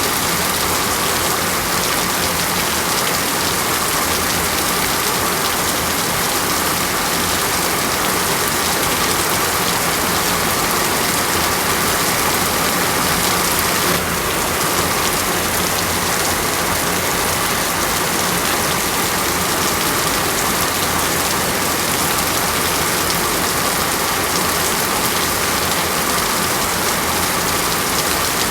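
Steady rain falling on a surface: a dense, even hiss of drops that dips slightly in level about halfway through.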